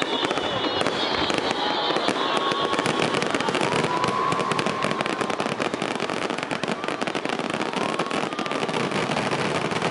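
Fireworks going off: a dense, unbroken crackle of many small pops from glittering crackle-star bursts.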